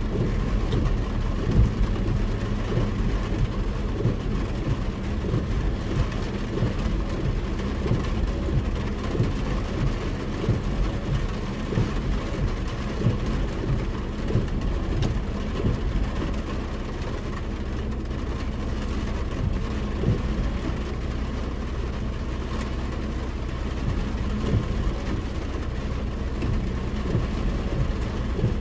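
A car's interior noise while driving: a steady engine and road drone, with many small irregular ticks of heavy rain striking the body and windscreen.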